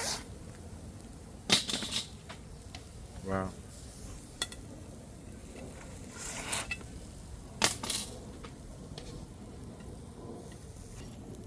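A few separate bursts of clinking and clattering metal and dishware, with one sharp knock, over a faint steady hiss.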